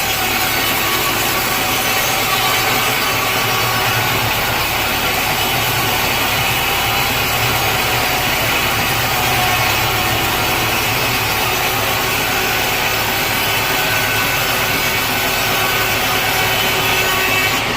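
Sawmill saw cutting through a large teak log, a steady loud rasping noise with machinery running beneath it.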